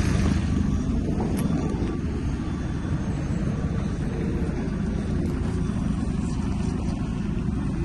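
Opel Zafira B's 1.6-litre Z16XEP four-cylinder petrol engine idling steadily.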